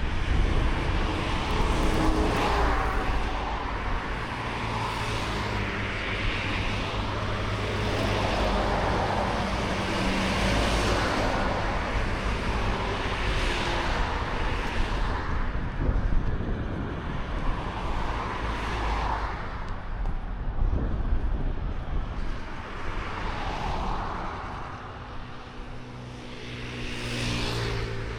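Road traffic: motor vehicles passing one after another over a steady low engine hum, each pass swelling and fading every few seconds.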